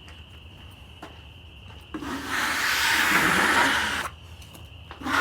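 Rasping scrape across freshly sawn walnut wood, scraping material off the surface: one stroke of about two seconds starting about two seconds in, and a second one beginning at the very end.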